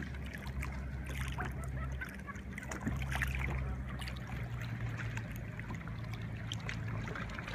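Water lapping and trickling against a small boat's hull, over a low steady rumble.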